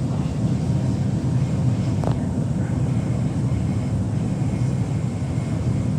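Steady low rumble inside an electric passenger train, with one short click about two seconds in.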